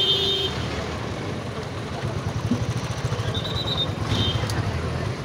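Road traffic: vehicle engines running with a steady low rumble, a short horn toot right at the start, and brief high beeps about three to four seconds in.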